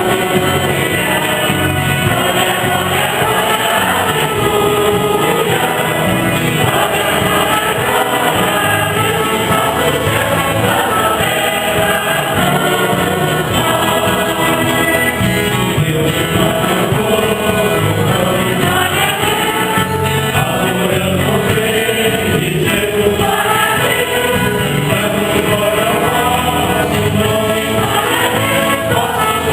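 Church choir singing a hymn with instrumental accompaniment and a steady beat.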